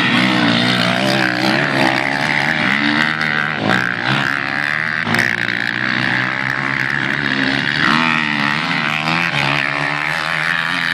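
Motorcycle engines running and revving in a race, their pitch rising and falling.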